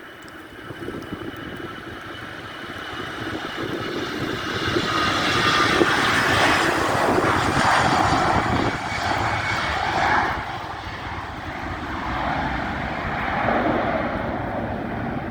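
Airbus A320 jet airliner's engines passing, the noise building to its loudest about halfway through and then easing off, with a high engine whine that falls in pitch as it goes by.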